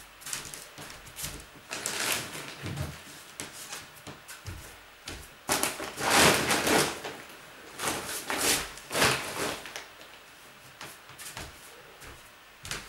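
Irregular bumps, scrapes and rustles of boxes and household things being handled and stacked, the loudest clatter about six seconds in and again near nine seconds.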